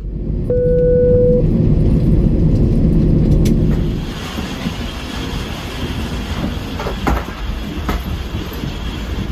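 Steady rumbling vehicle noise, easing about four seconds in, with a single steady chime lasting about a second starting half a second in and a few sharp clicks later on.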